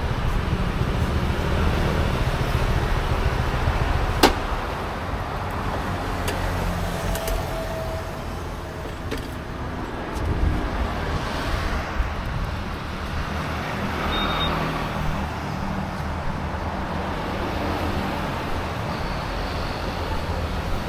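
Motorbike on the move on a road: a steady low engine and wind rumble with traffic noise, and a sharp click about four seconds in.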